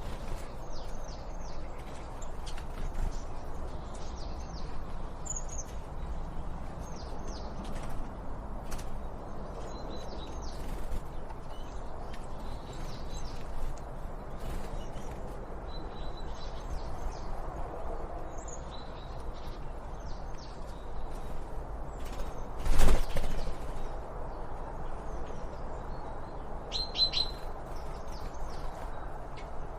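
Small birds chirping in short, high, quickly repeated clusters of notes over a steady background hiss. A single sharp knock, the loudest sound, stands out about two-thirds of the way through.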